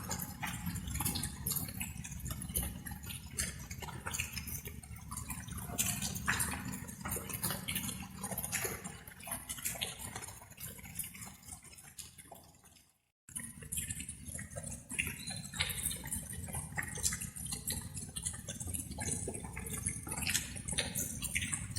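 Light rain, its drops dripping and pattering irregularly over a steady low rumble. The sound cuts out completely for a moment a little past halfway, then resumes.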